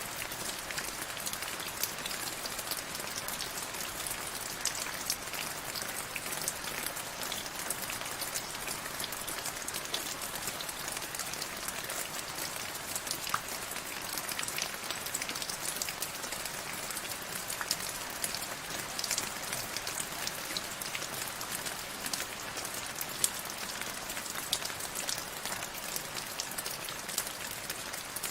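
Steady rain falling, a constant hiss dotted with the sharp ticks of individual drops striking a surface.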